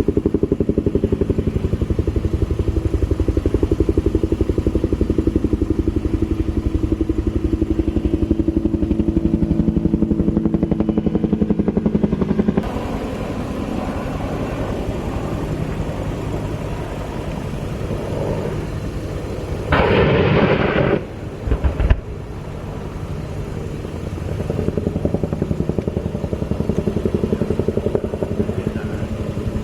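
Military helicopter rotor chopping steadily with a fast, even beat, dropping in level about twelve seconds in. About twenty seconds in, a loud noisy burst lasts about a second, followed by a sharp crack.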